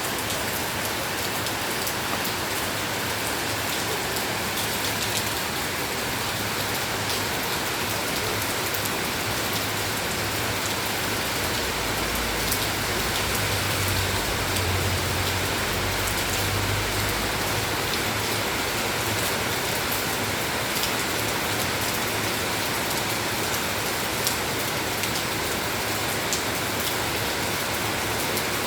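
Steady rain falling, with many individual drops ticking on a surface. A low rumble joins in from about twelve seconds in and fades a few seconds later.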